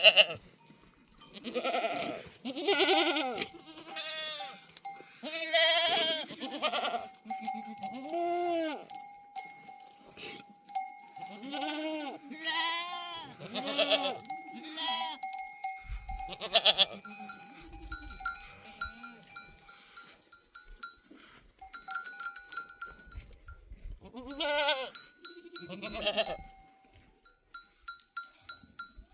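A herd of goats bleating over and over, many calls overlapping, with livestock bells clinking and ringing among them.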